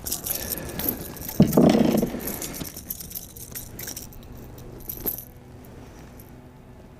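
Metallic jingling and rattling of a lipless crankbait and tackle as a hooked crappie is landed in a kayak, with a louder burst of handling noise about a second and a half in.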